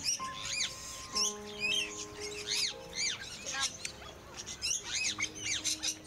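Small birds chirping, with many quick, high, arched chirps following one another, over background music with long held notes.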